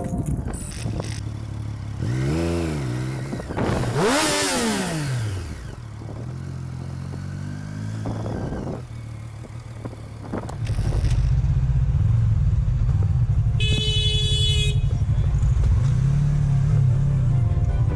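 Motorcycle engine revving up and back down twice, then running loud and steady close to the microphone, with one more rev near the end.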